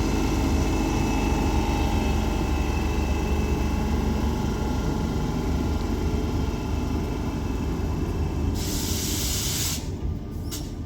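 Northern Class 769 bi-mode unit pulling away on electric power from the overhead wires: a steady low rumble with faint motor tones, quiet and not rattly. About eight and a half seconds in comes a short burst of air hiss, and the sound then drops off.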